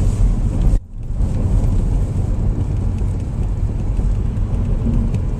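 Steady low rumble of a car's engine and tyres heard from inside the cabin while driving slowly. The sound drops out for a split second about a second in.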